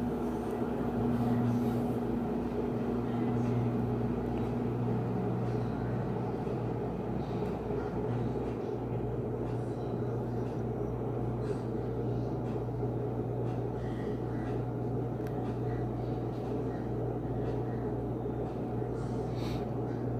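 Panasonic 14 kg top-loading washing machine running with a steady low motor hum after its drain. A higher hum stops about five seconds in.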